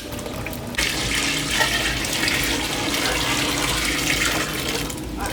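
Water running in a steady stream. It starts about a second in and breaks off briefly near the end.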